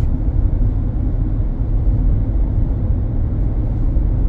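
Steady low rumble of a car travelling at highway speed, heard from inside the cabin: road and tyre noise with the engine underneath.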